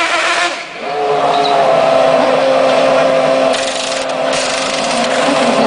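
Aston Martin DBR9 race car's V12 engine running at a steady pitch, dipping briefly about a second in, with a short burst of hiss a little past the middle.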